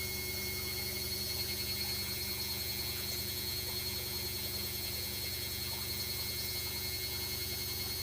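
LG WD-80160NUP front-loading washing machine running, a steady low hum with a high whine.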